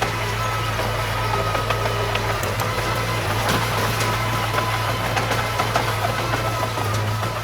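Diesel engine of heavy earthmoving machinery running steadily, with scattered short metallic clicks and rattles over it.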